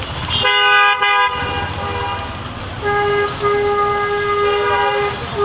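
Vehicle horn honking: a blast of about a second starting half a second in, then a long steady blast of about three seconds, over the steady hiss of heavy rain.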